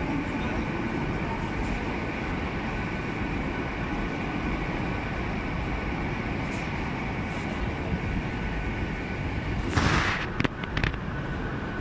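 Passenger train running slowly past a platform under a station roof, a steady rumble with a faint whine. About ten seconds in there is a brief loud hiss with a few sharp clacks.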